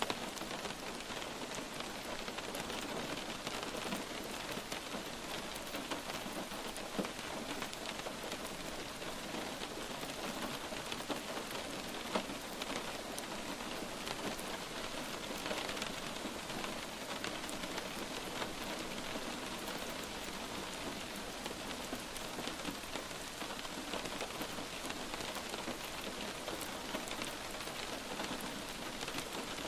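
Steady rain falling on a surface, a dense even patter with the occasional louder single drop standing out.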